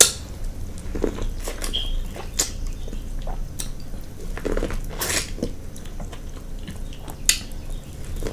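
Close-miked eating: irregular wet chewing, biting and lip-smacking, likely into corn on the cob, with scattered sharp clicks of varying loudness.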